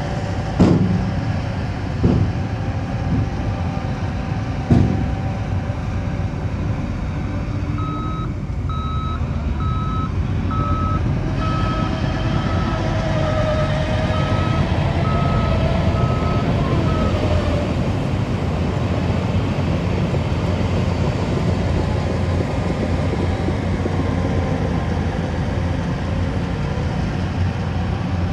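Diesel engines of earthmoving machinery running steadily, with three sharp clanks in the first five seconds. From about eight seconds in, a reversing alarm beeps evenly for about nine seconds.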